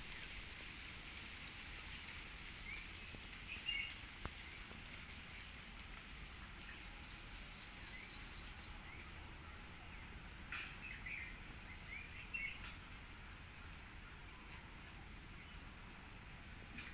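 Small birds chirping in short clusters now and then, about four seconds in and again for a couple of seconds past the middle, over faint steady outdoor background noise.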